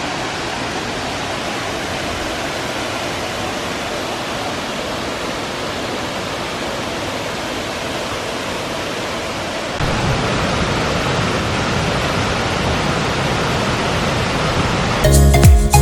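Waterfall rushing: a steady wash of falling water. About ten seconds in it gets louder and fuller in the low end. Music comes in near the end.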